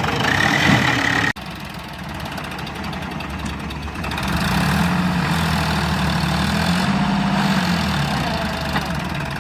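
Tractor diesel engine running, louder from about four seconds in, its low hum wavering slightly in pitch. A steady high tone sounds for about the first second and ends at an abrupt break.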